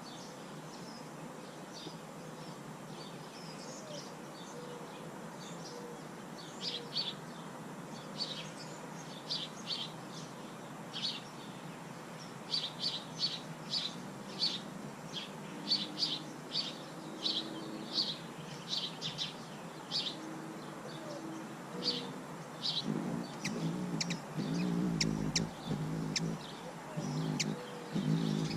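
A bird chirping over and over in short high notes, about one or two a second, over a steady background hiss. Near the end a lower pitched sound joins in.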